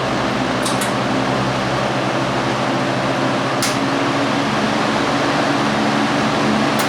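A vintage 1967 Lasko 20-inch metal box fan with a Westinghouse motor running and oscillating: a steady rush of air over a low motor hum. A few brief, faint clicks come near the start, about midway and at the end.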